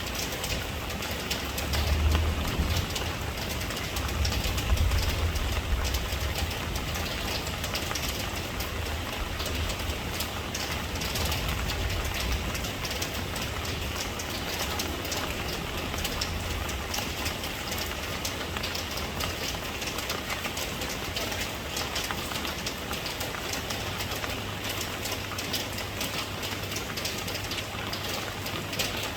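Steady rain, an even hiss of falling drops, over a low rumble that swells about two and five seconds in and then settles.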